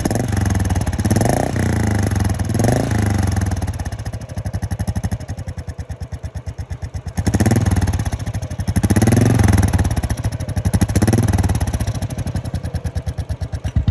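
A Royal Enfield motorcycle engine running through a genuine slash-cut Royal Enfield silencer with its dB killer fitted, which cuts the noise down. The throttle is blipped a few times, the engine settles to idle about four seconds in, and then it is revved repeatedly again.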